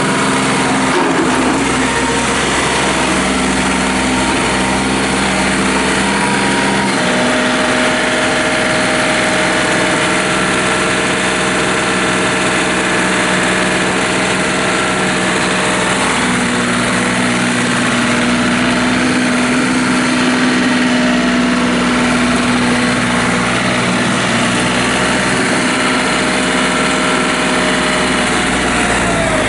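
John Deere 3720 compact tractor's diesel engine running steadily. Its note shifts about a quarter of the way in and again about halfway.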